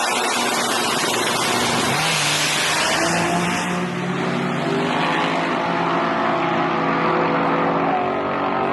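Drag race vehicle's engine running, with a rushing hiss in the first few seconds. A steady engine drone comes in about two seconds in and creeps slightly up in pitch.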